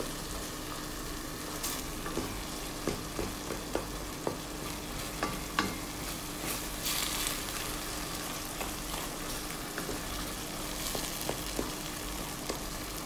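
Chopped tomatoes and onion sizzling in oil in a stainless steel pot while a wooden spatula stirs them. There are light taps and scrapes of the spatula against the pot, most of them in the first half.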